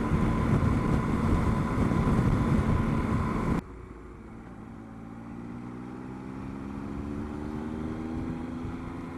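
Motorcycle riding at about 70 mph, heard from a helmet-mounted microphone: heavy wind noise over a steady engine note. About a third of the way in, the sound cuts abruptly to a much quieter recording in which the engine note climbs slowly as the bike accelerates.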